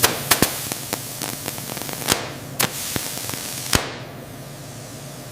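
A steady hiss with sharp cracks and small crackles scattered through it, the loudest snaps at the very start and a few more in the first four seconds, then only the hiss.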